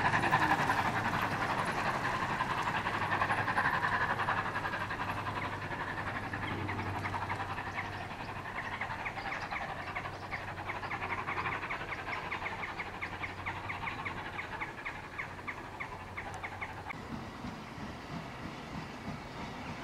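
Heritage railway train running away into the distance, its sound fading steadily, over a low steady hum. In the middle there is a run of quick, even ticks for several seconds.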